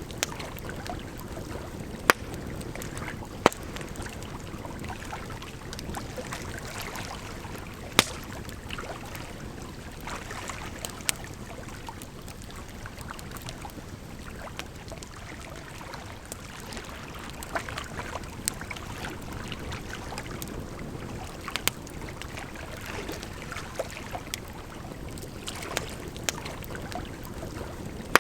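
Wood campfire crackling, with sharp pops every few seconds, over the steady rush of flowing water.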